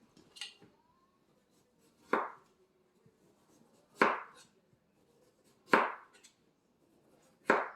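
Kitchen knife cutting through melon rind and knocking down on a cutting board, four strokes about two seconds apart.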